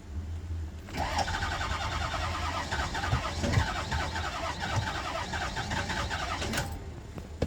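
6.0-litre diesel engine being cranked by its starter for about six seconds with a rhythmic pulsing: it turns over but never catches, then the cranking stops suddenly. The engine is getting fuel and battery power but not firing: a crank, no-start.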